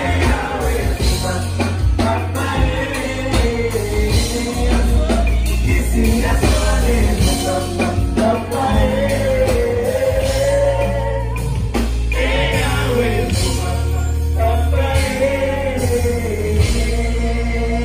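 A band playing with a singer over a heavy bass line, loud and continuous.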